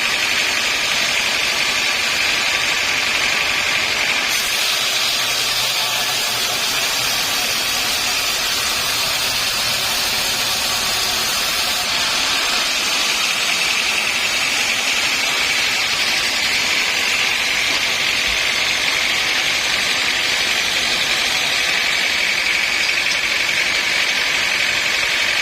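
Sawmill machinery running steadily with a high whine, joined by a harsher hiss for several seconds in the first half.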